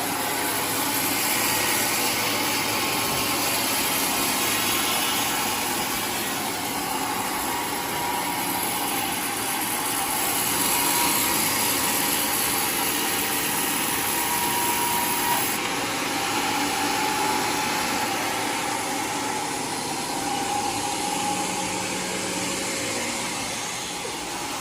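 Homemade sawmill running steadily, its saw cutting through a waru (sea hibiscus) log.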